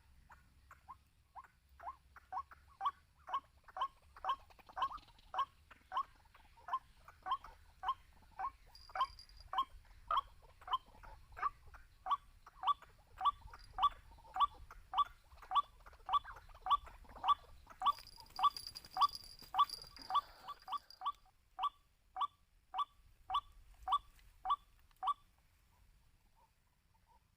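White-breasted waterhen calling: a long, steady series of short repeated 'kwak' notes, about two a second, growing louder, then stopping a couple of seconds before the end.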